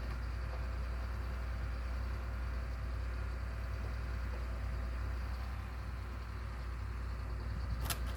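Steady low engine rumble of running machinery, with a sharp click near the end.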